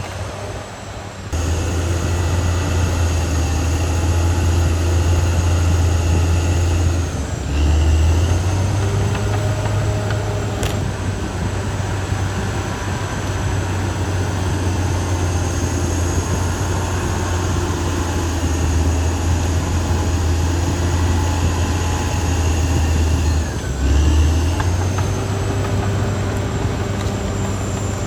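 Caterpillar D6R XL bulldozer's diesel engine running under load: a steady low drone with a high whine over it. It gets louder about a second in, and its note briefly drops and changes twice, once about 7 seconds in and once near the end.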